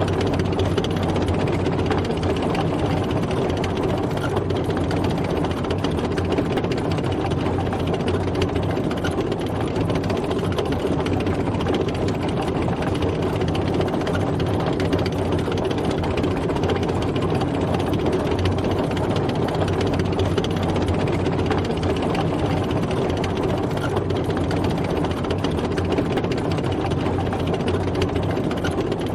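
Tank driving, its engine running steadily with a continuous mechanical clatter.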